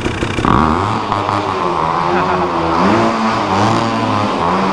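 Two-stroke dirt bike engine running loudly and being revved, its pitch rising and falling several times.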